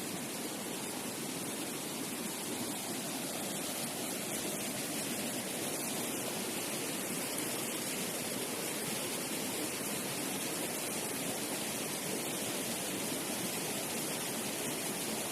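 Steady rushing noise of flowing water from a nearby waterfall or stream, even and unbroken.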